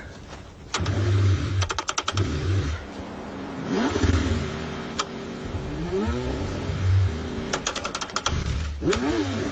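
A cold car engine cranking in repeated bursts as it struggles to start, with bursts of rapid clicking and brief rising-and-falling whines.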